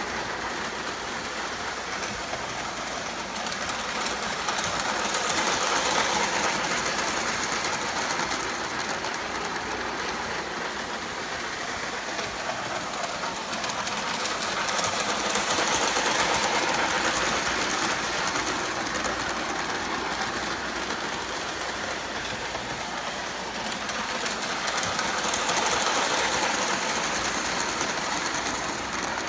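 Lionel O27 toy electric train, an NYC Flyer 4-4-2 locomotive pulling cars, running on three-rail track: a continuous motor whir and wheel clatter on the rails. It grows louder about every ten seconds as the train comes round close by.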